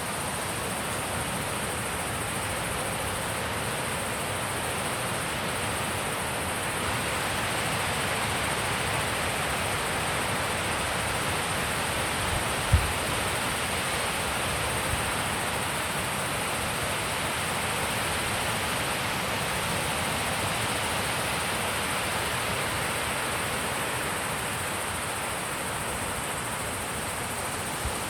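Wind blowing steadily through the trees, swelling a little through the middle, with one short low thump about 13 seconds in.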